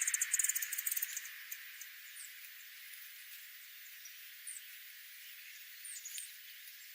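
Small birds calling: a rapid, very high chattering trill in the first second, then a few scattered short high chirps.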